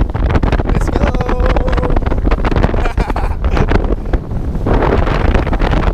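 Jet ski running at speed over choppy water, its engine and water noise largely buried under heavy wind buffeting on the microphone.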